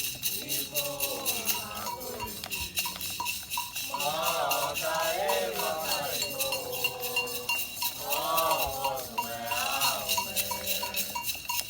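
Candomblé chant: voices singing a melody over a steady rhythm struck on a metal bell, with shaken rattles.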